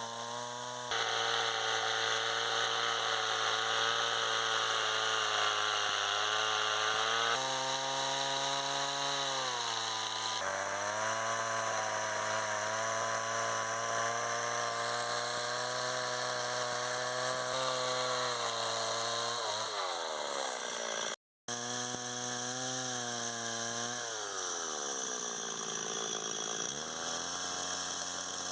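A power tool's motor running hard, its pitch sagging twice as it bears into the work. It cuts out for an instant about two-thirds of the way through.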